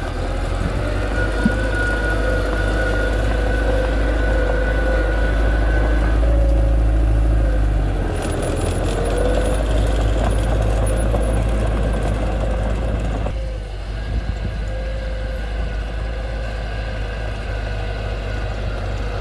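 Diesel engine of heavy earthmoving machinery running under load, with a steady whine over the rumble that stops about six seconds in; the engine note eases about eight seconds in and again a little past thirteen seconds.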